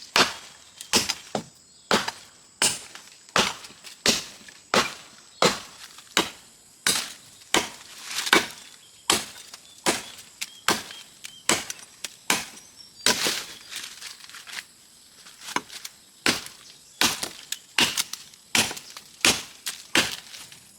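Chopping with a blade into wood, a steady run of sharp cracking strikes about one and a half times a second.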